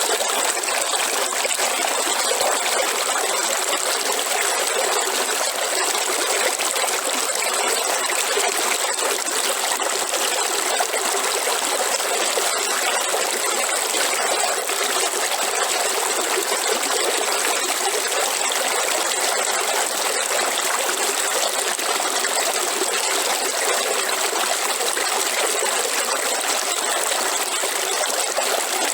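River water flowing and trickling steadily, with a thin, steady high tone running over it.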